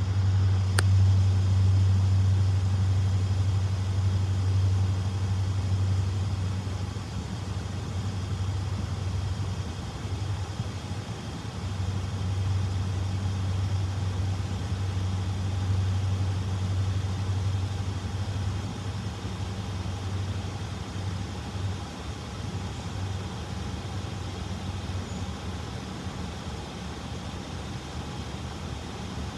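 Diesel locomotive engine rumbling low and steady as the local train moves through the crossing, loudest in the first few seconds, swelling again midway, then gradually fading.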